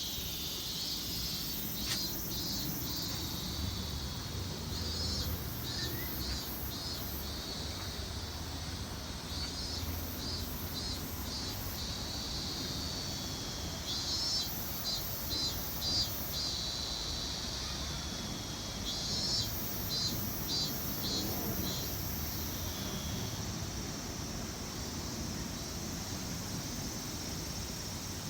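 Insects calling in short, high-pitched trains of rapid pulses, repeated every few seconds over a steady low background rush; the calls die away about two-thirds of the way in.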